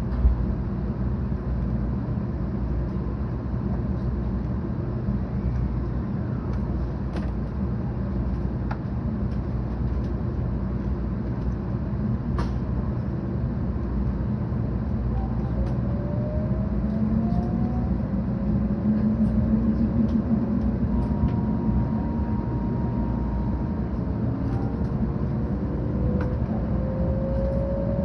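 Steady running rumble of a 700 series Shinkansen car, heard from inside the passenger cabin, with faint whines rising in pitch from about halfway through.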